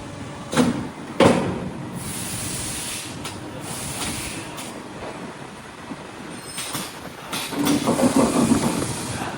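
Automatic pickleball hot plate welding machine working through its weld cycle: two sharp mechanical clunks about a second in, a hiss of air lasting about two seconds, then more clunks and a rattle near the end.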